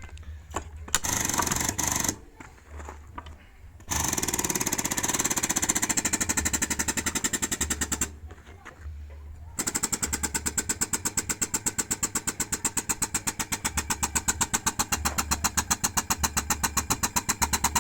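Pneumatic impact wrench hammering in fast, even blows, run in several bursts with the longest lasting about eight seconds near the end, as typically heard when undoing or running down a backhoe's wheel nuts.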